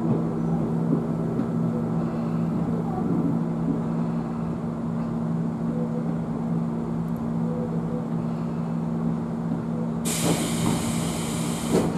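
Interior of a stationary Tobu 20000 series commuter train car: a steady low hum of the car's running equipment with two constant low tones. About ten seconds in, a sudden loud hiss of compressed air being released lasts about two seconds.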